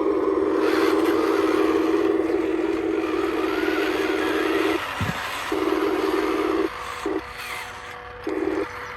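Small electric motor of a radio-controlled toy construction machine whirring in spurts: one long run, then several shorter starts and stops.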